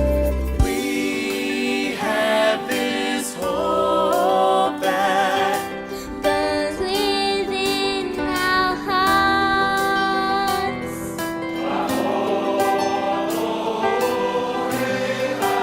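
Choir singing a slow sacred song, voices holding long notes with vibrato.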